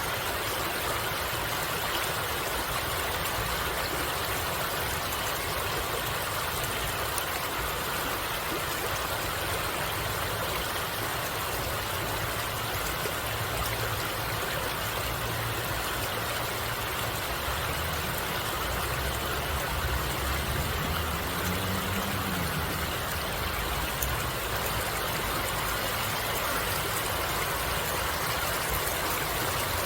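Steady rush of flowing stream water. A low rumble swells under it around the middle.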